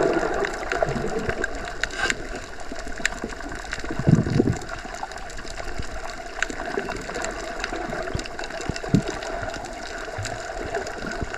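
Underwater ambience: a steady wash of water with many small scattered clicks and a couple of louder low bubbling thumps, about four and nine seconds in.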